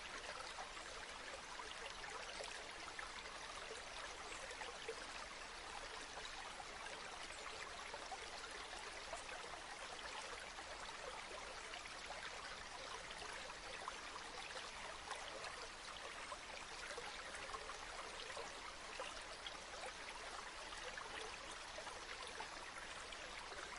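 Flowing river water: a steady, faint trickling rush with no music or voice over it.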